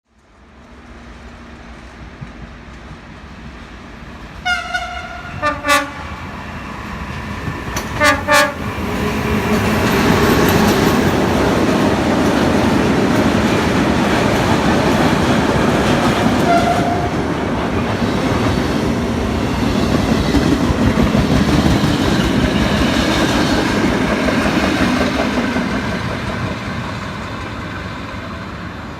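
A train horn sounds several short blasts, then a train passes through the station at speed, with a long stretch of wheel and rail noise and some clickety-clack that fades near the end.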